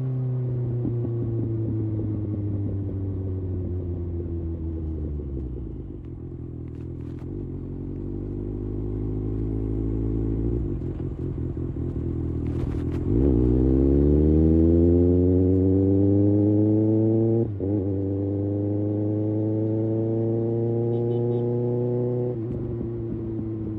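Kawasaki ZX-6R inline-four sportbike engine and exhaust under way: the revs fall as the bike slows over the first several seconds and stay low for a while, then climb sharply in acceleration about halfway through, broken by a quick upshift, and drop back as the throttle is eased off near the end.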